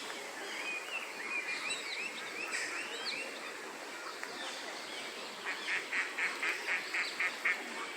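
Songbirds chirping and twittering; a little past halfway, one bird sings a run of about nine quick, evenly spaced notes, roughly four a second.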